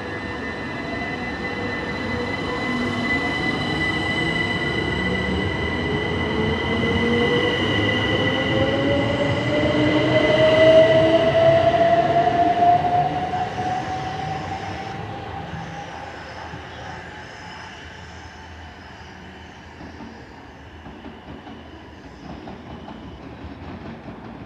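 Class 375 Electrostar electric multiple unit pulling away at full power. Its traction motor whine rises steadily in pitch over a steady high electric tone, growing louder to a peak about eleven seconds in, then fading as the train draws away.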